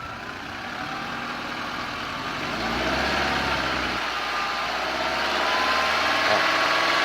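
2013 Nissan Altima coupe engine revved up slowly, with a thin whine that climbs in pitch as the revs rise and begins to fall right at the end.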